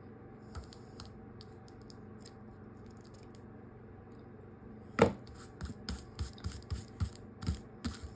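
Scissors snipping fabric and threads: a few faint clicks, then from about five seconds in a run of crisp snips, three or four a second.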